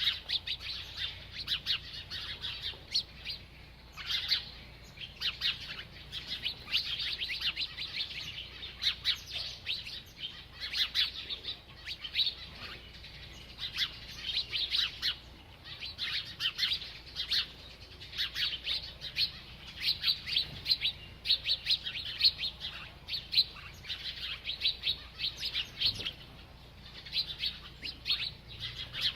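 A small bird chirping rapidly and almost without pause: quick runs of short, high chirps broken by brief gaps.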